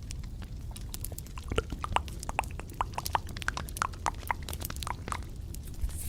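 Close-miked ASMR trigger sounds: a run of quick, irregular small clicks and taps, several a second, over a low steady rumble.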